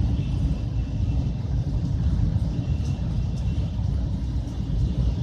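Taiwan High Speed Rail train running at high speed, heard as a steady low rumble inside the carriage. A faint high whine joins about halfway through.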